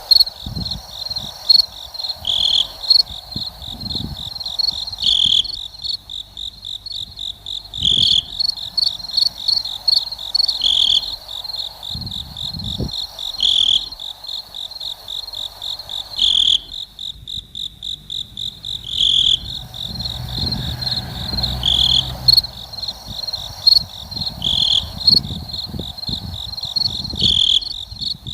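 Insect chirping: a fast, steady pulsing high note that swells into a louder burst about every three seconds.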